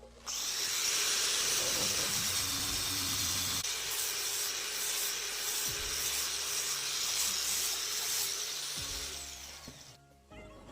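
Power tool working wood, a steady loud hiss that starts sharply just after the start and fades away near the end as the tool winds down.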